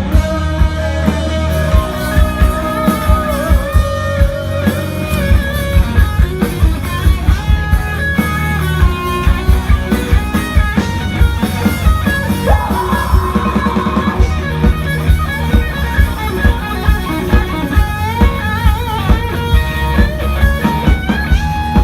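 Rock band playing live in an instrumental break without vocals: a guitar lead holding and bending notes over bass and a steady drum beat.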